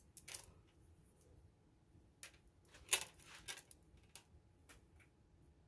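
A few scattered light clicks and taps of small objects being handled, the loudest about three seconds in.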